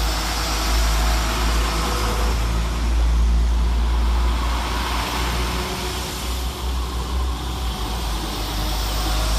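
Diesel multiple unit engines running with a steady low rumble.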